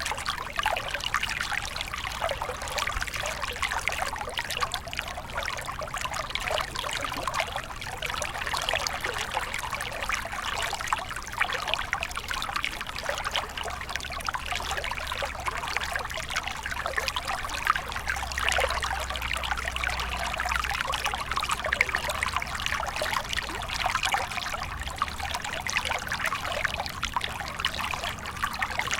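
Small stream of water flowing and trickling over stones, a steady babbling splash with a faint low rumble underneath.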